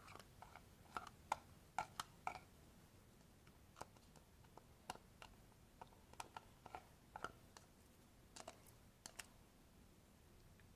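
Faint, irregular clicks and light taps of small things being handled, a little more frequent in the first couple of seconds and again near the end.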